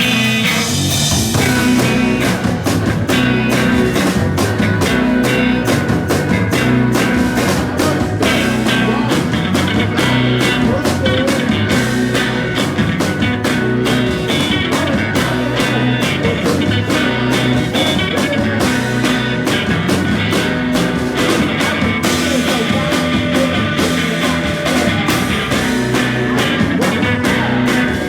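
Live rock band playing: electric guitar, bass and drums with a steady beat, loud and continuous.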